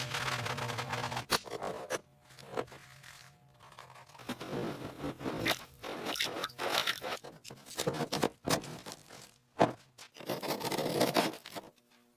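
Rust being scraped off a steel panel by hand in short, irregular strokes, with sharp clicks in between.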